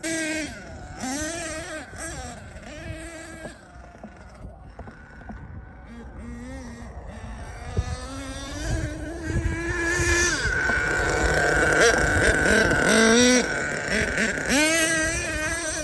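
HPI Savage X 4.6 nitro monster truck's small glow-fuel engine revving up and down as it is driven. It goes fainter for a few seconds, then from about ten seconds in it is held at high revs and gets louder before dropping again near the end.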